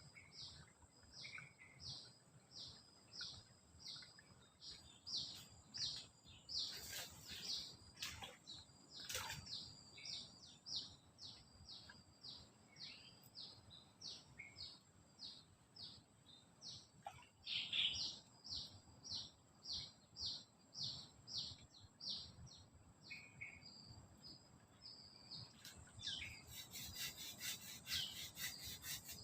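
Faint high chirping calls of a forest animal, repeated about twice a second over a steady high thin tone, with a few sharp clicks and a fast high trill near the end.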